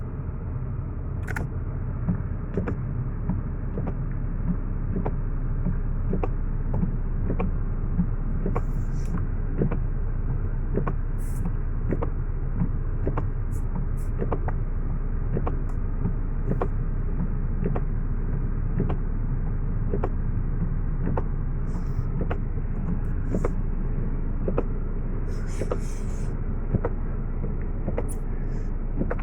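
Toyota Corolla engine idling steadily after a cold start in snow, a low even running sound with a light regular tick about every two-thirds of a second.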